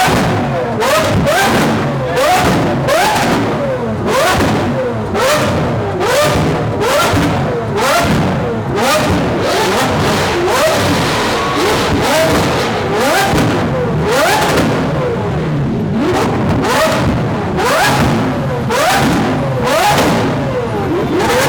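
A Lamborghini supercar's engine revved again and again, its pitch rising and dropping back about once a second, with sharp cracks from the exhaust at many of the drops.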